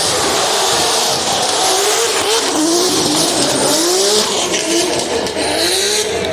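Drift cars sliding on track: engines revving in repeated rising sweeps over a loud, steady hiss of squealing, spinning tyres.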